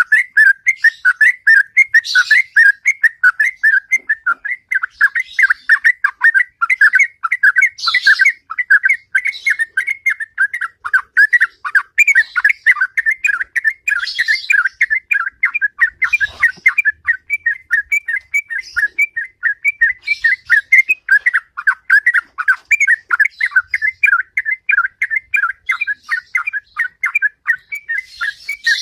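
Sooty-headed bulbul (trucukan) singing its long, unbroken 'ropel' song: a rapid run of whistled notes, several a second, with a higher, rougher chirp breaking in every few seconds.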